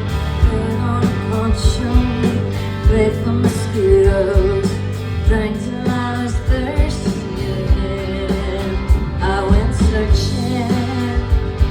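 Live band music with a steady drum beat, guitar and singing.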